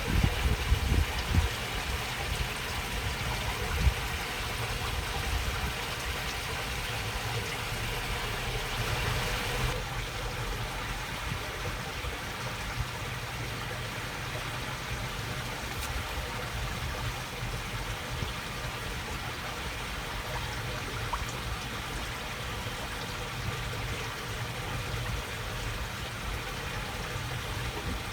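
Water babbling steadily along a small channel, an even rushing trickle. Low rumbling thumps sound in the first couple of seconds, and the high hiss eases slightly about ten seconds in.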